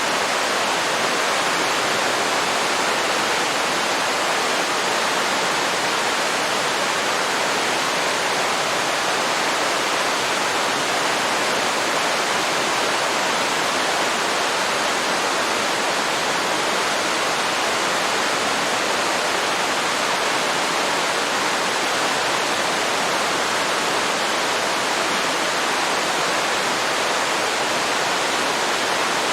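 Waterfall rushing steadily: a constant, even wash of falling water with no breaks or changes.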